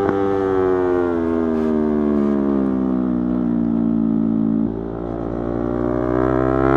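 Yamaha YZF-R3's parallel-twin engine on the move, its pitch falling steadily for several seconds as the bike slows off the throttle, then, after a brief dip in level, rising again as it accelerates.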